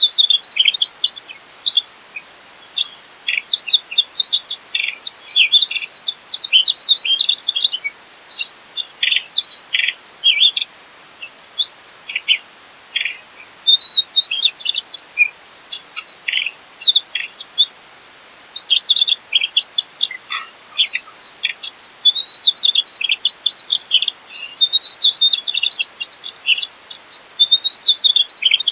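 Mugimaki flycatcher singing continuously: a rapid, varied stream of high chirps, trills and twittering phrases.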